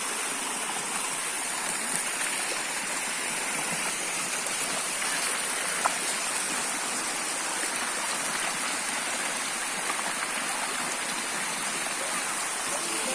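Small waterfall splashing and rushing steadily, with a few faint drips or clicks over the noise.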